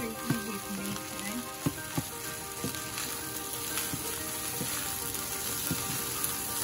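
Fried rice sizzling over high heat in a nonstick wok as it is stir-fried, with scattered short knocks and scrapes of a plastic spatula against the pan.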